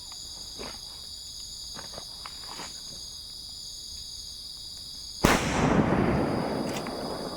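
A firecracker goes off about five seconds in: one sharp bang, then a noisy tail that fades over about two seconds. A steady chorus of crickets runs underneath.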